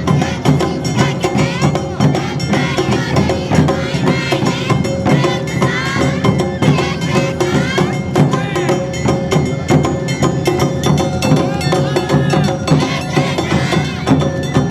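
Live Awa Odori festival music: drums and clacking percussion keeping a quick, steady beat, with a high wavering melody over it.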